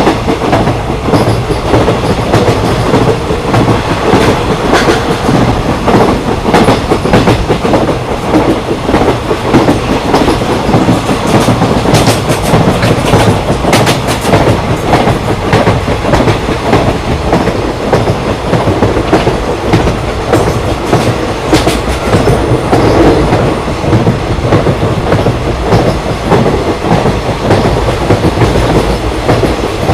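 Indian Railways express train running at speed, heard from on board: a steady rumble and rattle of the coaches with the clickety-clack of wheels over rail joints. There is a cluster of sharper clacks near the middle and again about two-thirds of the way through.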